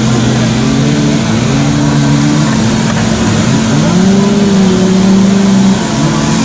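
Several two-stroke chainsaws running at once as carvers cut, their engines at different pitches overlapping, one revving up about four seconds in and easing off near the end.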